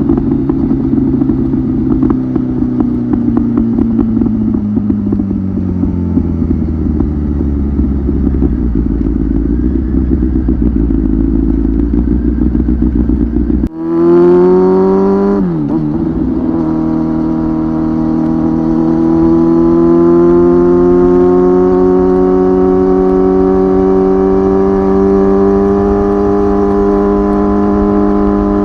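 Kawasaki ZX-10R's inline-four engine through a titanium slip-on muffler, heard onboard while riding. Its note falls in pitch as the bike slows over the first few seconds. About halfway through the sound changes abruptly: a quick rev rise and drop, then a steady engine note that slowly climbs in pitch as the bike gathers speed.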